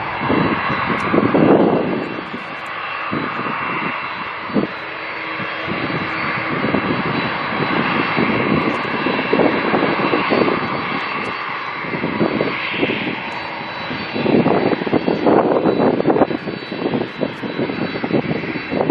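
Jet airliner engines, a steady high turbine whine over a rumbling roar that grows louder near the end.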